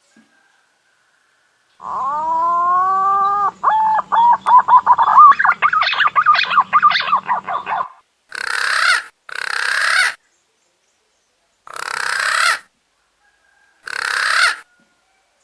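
Punai daun green pigeon song played as a lure call: one long whistle that rises and then holds, followed by a run of short whistled notes that comes faster and faster. After that come four short, harsh, hissing rasps.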